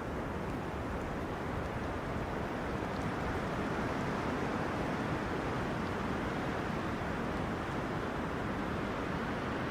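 Wind rustling through tree crowns in steady gusts, an even rushing noise that swells slightly a few seconds in.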